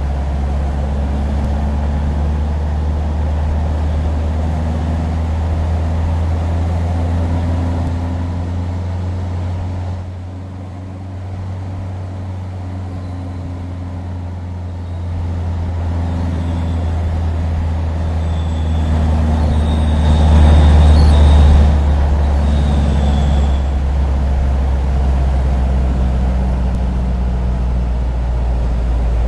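Steady low rumble of a motor vehicle running, dipping briefly about ten seconds in and swelling about twenty seconds in, with a thin high-pitched squeal at the same time.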